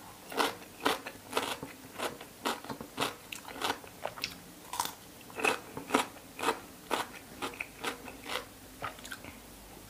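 Raw cucumber being chewed close to the microphone: crisp, even crunches at about two a second.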